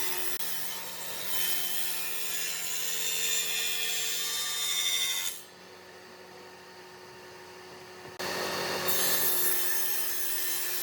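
A power tool working on wood, making a harsh, grating hiss over a low motor hum. It cuts off about five seconds in and starts again about three seconds later.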